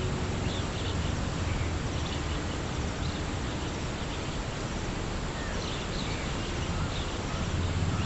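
Small birds chirping in short, scattered calls over a steady rush of outdoor background noise.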